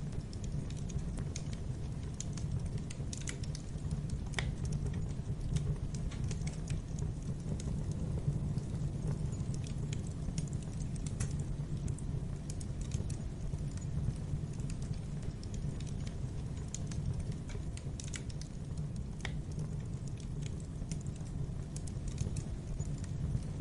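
Wood fire crackling in a fireplace: irregular sharp snaps and pops over a steady low rumble of the burning.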